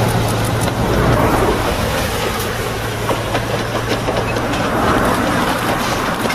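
A train running along its track: a steady low hum under a dense rattle of clicks and clatter.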